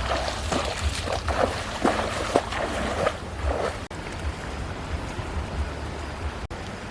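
Water splashing and sloshing in short irregular bursts for the first three and a half seconds, with wind rumbling on the microphone throughout.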